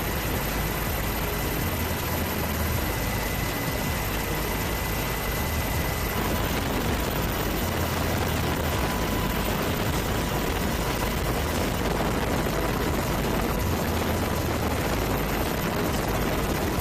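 Steady aircraft engine noise: an even rush of sound with a faint steady whine over it.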